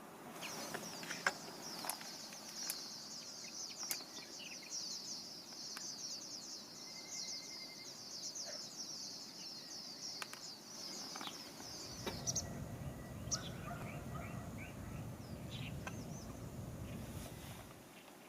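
Rapid, high chirping from outdoor wildlife for about twelve seconds, stopping abruptly. A low rushing noise follows for about five seconds, with a few scattered clicks.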